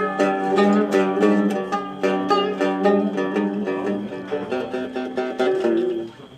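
Cümbüş, the fretless Turkish banjo-like lute, played in fast picked runs of a folk dance tune (oyun havası) over a steady low held note. The playing breaks off briefly near the end.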